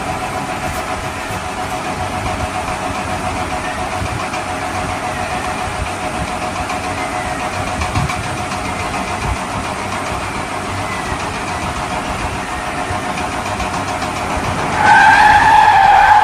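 A steady engine or motor sound at an even level, with a faint held tone in it. Near the end a louder, steady pitched tone starts.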